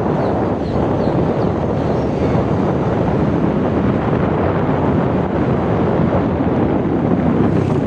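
Steady wind rushing over the microphone on a moving motorcycle, with the bike's engine running underneath.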